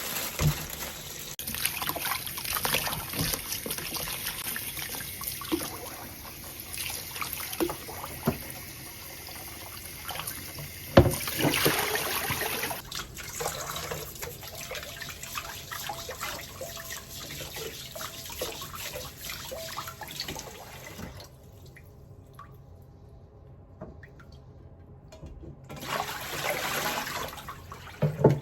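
Water running from a kitchen tap into a sink, with occasional knocks. It stops about three quarters of the way through, then runs again briefly near the end.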